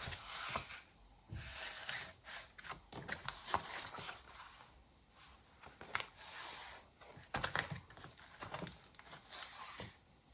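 Paper pages and ephemera of a handmade junk journal rustling and crinkling as it is handled and the pages are turned, with small irregular clicks and flaps.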